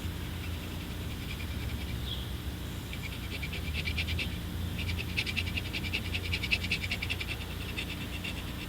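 Pocket knife blade scraping leftover gasket material off a throttle body, a fast chattering scrape in two runs, the first about two and a half seconds in and the longer one from about five seconds in, over a steady low hum.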